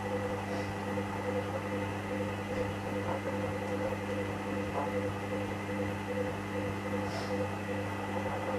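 Hoover Dynamic washing machine running at the start of a 30 °C main wash: a steady electrical hum with a few faint ticks.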